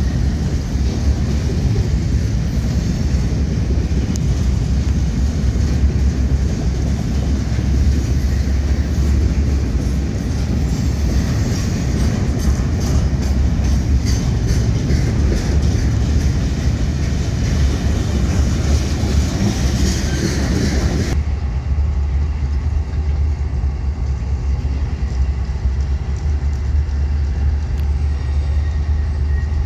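Double-stack intermodal freight cars rolling past close by, a loud steady rumble with clatter from the wheels over the rails. About two-thirds of the way through the sound changes abruptly to the steady low running of a CSX diesel locomotive's engine.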